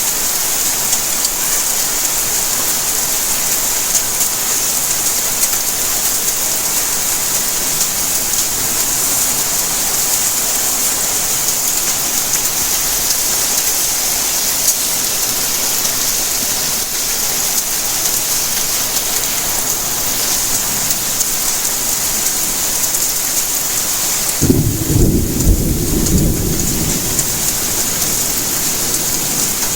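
Steady rain falling, with a clap and rumble of thunder lasting a couple of seconds near the end.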